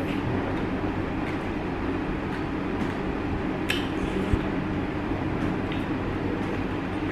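A steady low hum, with a few faint clicks and clinks of eating, the clearest one a little under four seconds in.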